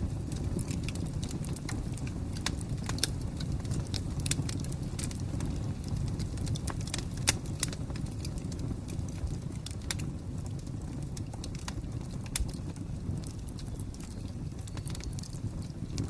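Wood fire crackling: a steady low rumble of flames with irregular sharp pops and snaps, the loudest pop about seven seconds in.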